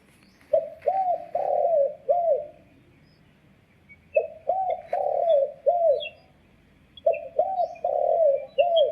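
Recorded dove cooing played through a homemade hunting bird caller speaker: three repeated phrases, each a run of four or five rounded coo notes, with a pause of about two seconds between phrases.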